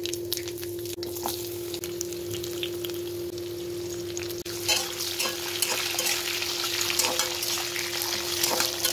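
Spice seeds crackling and sizzling in hot oil in a wok, then sliced sweet potatoes and curry leaves frying with a spatula stirring them; the sizzle grows louder about five seconds in. A steady low hum runs underneath.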